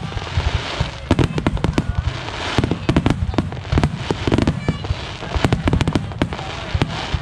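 Fireworks display: a rapid barrage of aerial shells bursting, with many booms and sharp cracks close together over a continuous low rumble.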